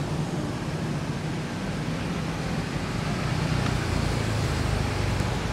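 A steady low engine rumble with an even hiss over it, swelling slightly near the end.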